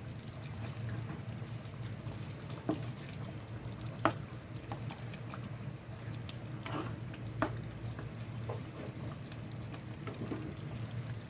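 A pot of chicken curry simmering, over a steady low hum, with a few light clicks of a utensil against the pot.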